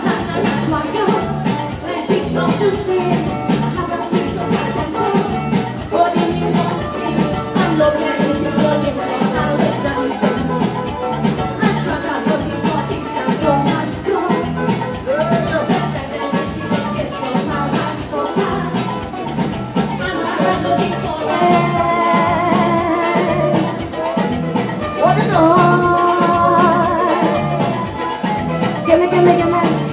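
Parang band playing a Christmas number, with maracas shaking a steady rhythm over guitar and drums.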